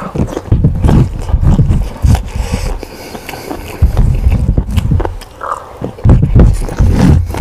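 Close-miked person chewing and munching food, with irregular munching sounds and short clicks.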